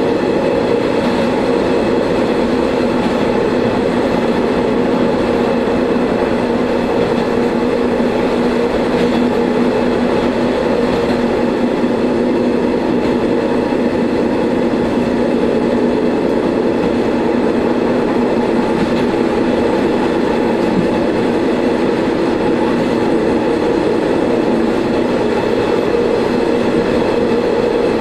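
Diesel railcar running along the line, heard from inside the car: a steady engine hum over wheel and rail noise, unchanging throughout.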